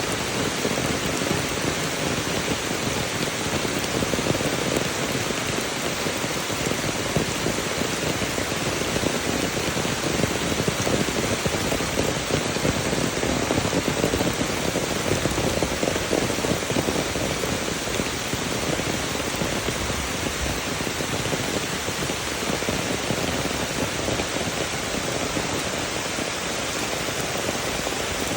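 Steady, unbroken hiss of water, like heavy rain, with no single drops or splashes standing out.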